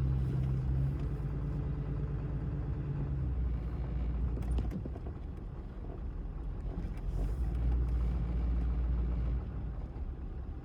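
A car's engine and tyre noise heard from inside the moving vehicle: a steady low drone of engine hum and road rumble.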